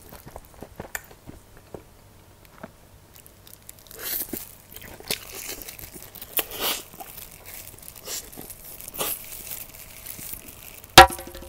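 Close-miked biting, crunching and chewing of fried chicken, in short irregular bursts with wet mouth sounds. Near the end a single loud sharp hit, and then music with a steady beat starts.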